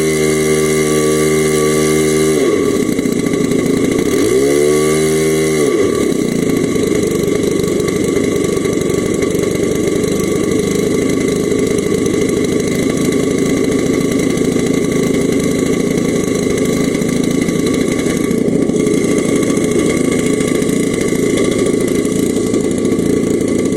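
Saito FA-125 single-cylinder four-stroke glow engine of an RC Yak 54 model plane, running at a steady pitch that drops sharply about two and a half seconds in. It rises and falls once around four to five seconds in, then settles into a steady rough drone.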